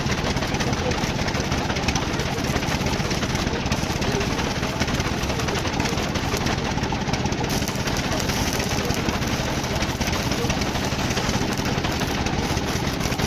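A machine running steadily and loudly, a continuous mechanical noise with no breaks.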